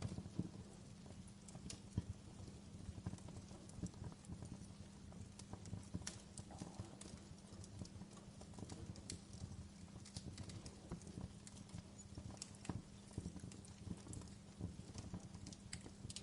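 Fire crackling, with irregular sharp pops and snaps over a low steady rumble of the flames.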